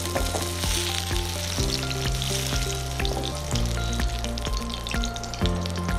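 Hot oil sizzling in a pan as stir-fried onions and capsicum are scraped out of it, over background music with held notes.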